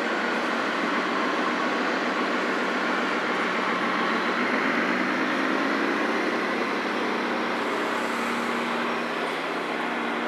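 Radio-controlled model trucks and construction machines running, a steady mechanical whine from their motors and gearboxes. The pitch rises for a couple of seconds near the middle.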